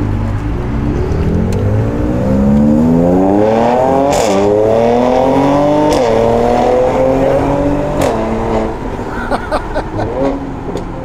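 Mercedes-AMG C43 on its stock exhaust accelerating hard, heard from inside the cabin: the engine note climbs steadily, drops at an upshift about four seconds in, climbs again and shifts once more about six seconds in, then settles to a steadier pull.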